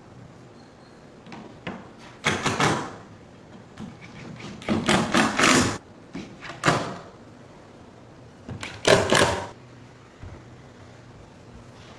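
Wood being worked by hand: four short bursts of quick strokes and knocks on wood, separated by pauses.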